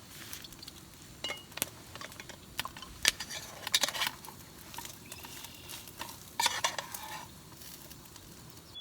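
Knife clinking and scraping, spreading jam on an English muffin: a few sharp clicks and several short scrapes.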